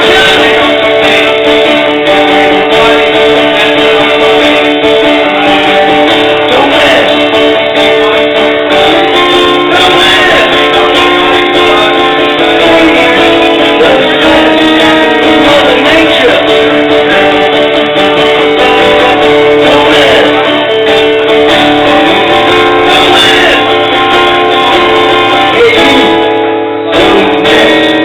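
Live music led by a strummed acoustic guitar, loud and steady, with a brief dip near the end.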